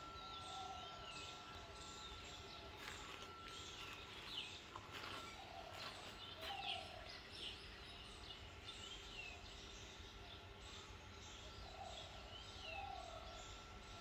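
Several wild birds calling faintly: repeated short high chirps that slide in pitch, and three times a lower two-note call. A thin, steady high tone runs underneath for part of the time.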